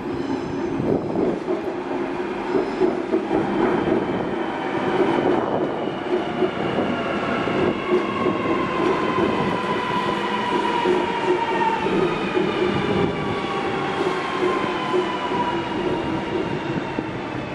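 Sydney Trains electric train running, with a steady rumble and, from about five seconds in, a whine that falls slowly in pitch.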